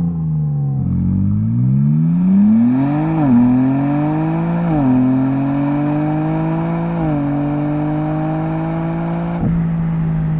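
BMW M3/M4 twin-turbo six-cylinder through an M Performance titanium valve exhaust, accelerating through the gears. Its pitch climbs and drops sharply at three upshifts. Near the end a short knock cuts off the upper hiss and the engine settles to a steady note.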